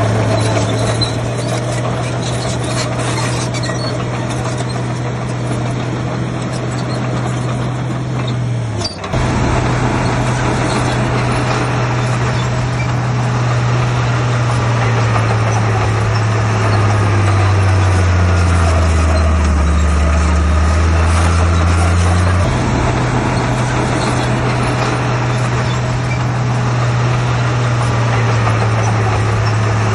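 Heavy diesel engine of earthmoving machinery running under load with a steady low drone. Its pitch sags for several seconds past the middle, then jumps back abruptly.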